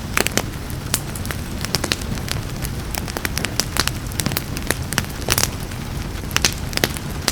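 Wood fire crackling, with frequent irregular sharp pops and snaps over a steady low rumble, and rain falling as a soft hiss in the background.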